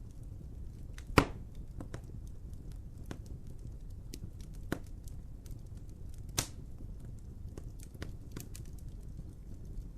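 Wood fire crackling over a low steady rumble, with scattered small crackles and two loud pops, about a second in and again just after six seconds.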